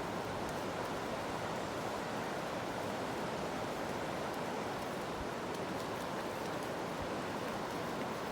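Steady rushing of floodwater, an even, unbroken wash of noise.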